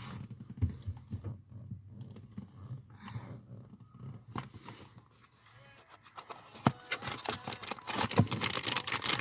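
Irregular rustling, with scattered clicks and knocks of objects being handled; the clicks and knocks come thicker and louder from about two-thirds of the way in.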